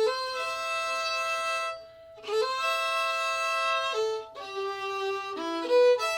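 Fiddle playing bowed double stops, two notes sounding together, with a short break about two seconds in and quicker note changes near the end.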